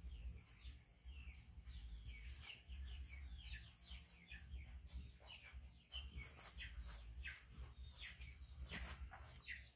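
Small birds chirping all around: many short, falling notes, several a second, over a faint low rumble.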